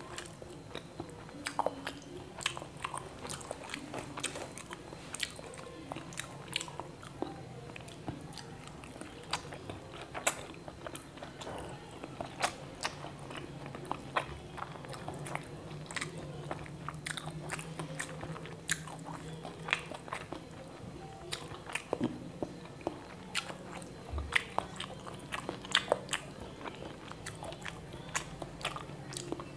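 Close-up eating sounds of a person chewing soft fried eggs with half-cooked, runny yolks, dipped in soy sauce with chili and shallot: many short smacks and clicks of the mouth and fingers throughout.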